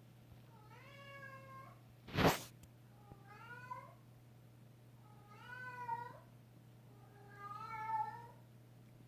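Domestic cat meowing four times, long drawn-out cries a couple of seconds apart: his habitual crying. A short loud burst of noise comes between the first and second meows, over a steady low hum.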